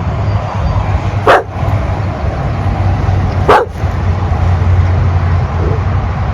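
A dog barking twice, about two seconds apart, over a steady low rumble; the owner says it was startled by a tree limb.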